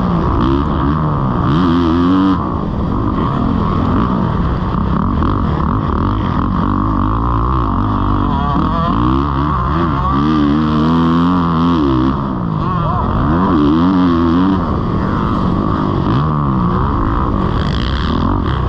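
Kawasaki KX450 four-stroke single-cylinder dirt bike engine under hard riding, its pitch climbing and dropping again and again as the throttle is opened and closed and gears change.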